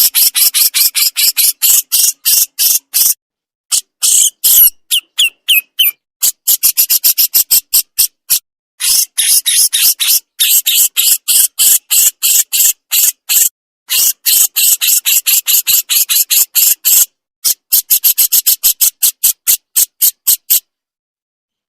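A jenggot jawa songbird in rapid 'besetan' chatter: strings of sharp, high-pitched notes at about four or five a second, in several runs broken by brief pauses, stopping shortly before the end.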